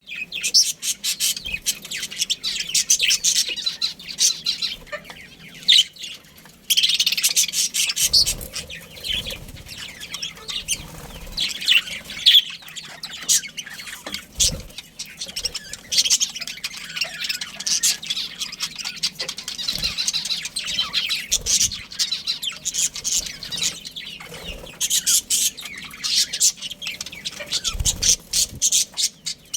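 Many budgerigars chattering and chirping together, a continuous stream of quick, overlapping high chirps, with a few soft low thumps.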